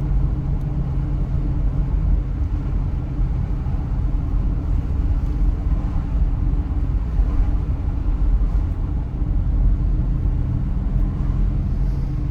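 Steady low drone of a car driving, engine and tyre noise heard from inside the cabin.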